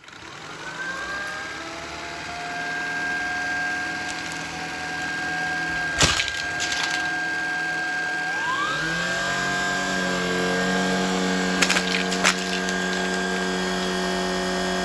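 Shark Vertex cordless stick vacuum's motor spinning up with a rising whine and running steadily, with a few sharp clacks as jelly beans are sucked up or knocked about. About eight seconds in, the whine climbs and a deeper hum joins as the load changes; the motor cuts off at the end.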